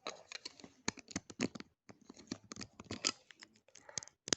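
LEGO bricks being handled and pressed together: a quick, irregular run of small plastic clicks and rattles.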